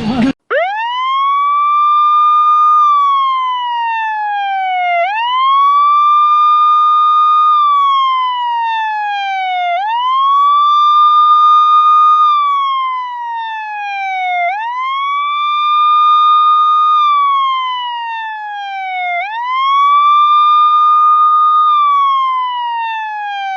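Police siren in a slow wail. Each cycle sweeps quickly up to its top pitch, holds there briefly, then falls steadily, and it repeats about every five seconds. It starts about half a second in, with no traffic or engine noise under it.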